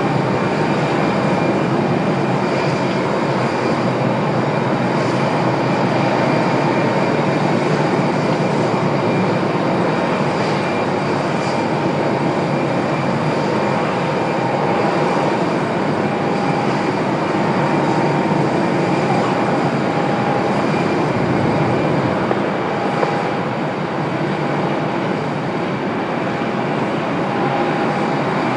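Jet airliner engines running steadily: a loud, even rushing noise with a faint steady whine over it.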